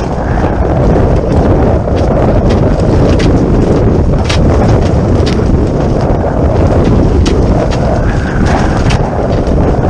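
Strong wind buffeting the microphone aboard a sailboat under way, a steady loud rumble with scattered sharp ticks.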